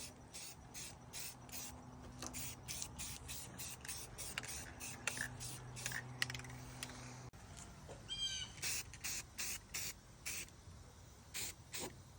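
Aerosol can of satin enamel spray paint hissing in many short bursts, one after another, as it is sprayed over rust on the truck bed.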